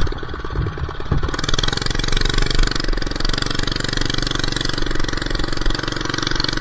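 Old minibike's small four-stroke engine running without a muffler, held on the throttle so it won't stall. It picks up about a second in and then runs steadily. The owner says it runs badly and dies if the gas is let off even briefly, which he blames on the missing muffler.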